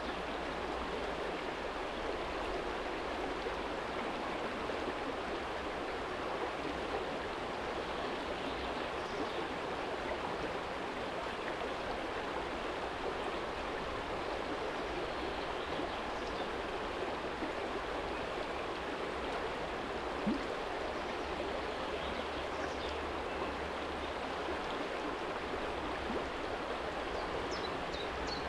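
Small shallow stream flowing steadily over a stony bed, with a continuous rushing and babbling, and a single sharp tick about two-thirds of the way through.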